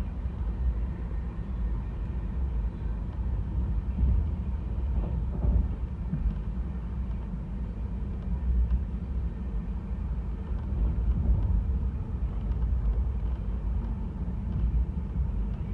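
Passenger express train running, a steady low rumble heard from on board.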